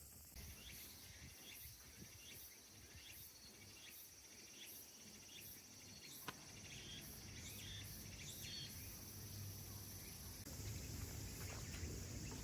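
Faint outdoor ambience of insects: a steady high buzz with short high chirps repeating about every half second, over a low rumble.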